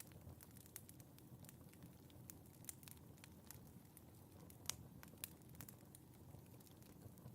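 Wood fire crackling in a fireplace: a soft low rumble of flames with irregular small pops and snaps, one sharper pop about halfway through.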